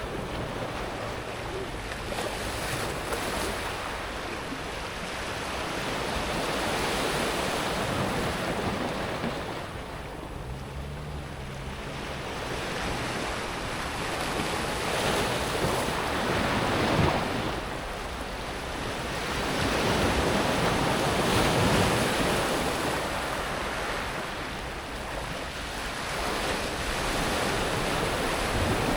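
Sea waves washing up and back over a pebble beach, a steady rush of water that swells and eases in slow surges every several seconds.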